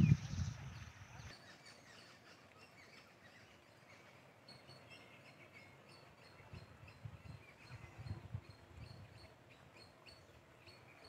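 Faint outdoor ambience: a bird calling in short, high chirps repeated at a quick, fairly even pace, with low gusts of wind on the microphone now and then. A low rumble fades out in the first second.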